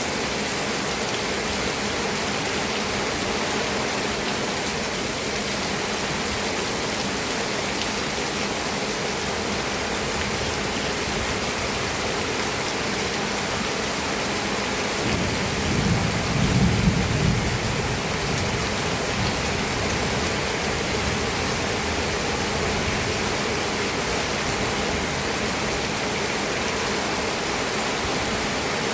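Steady rain falling, with a low rumble of thunder about halfway through that lasts a few seconds.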